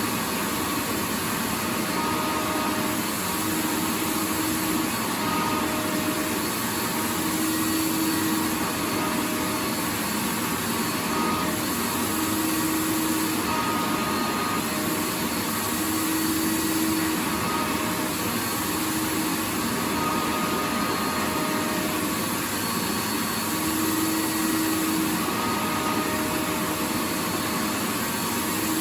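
Vacuum cleaner running steadily: a continuous rushing hiss with a faint low hum that comes and goes every second or two.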